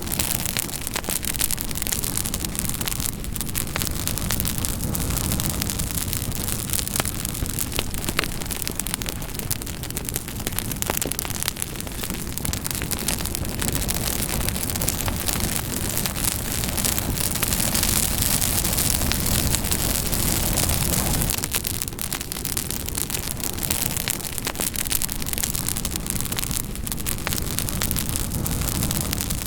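Campfire burning steadily, with a constant hiss of flames and many small sharp crackles and pops from the burning wood.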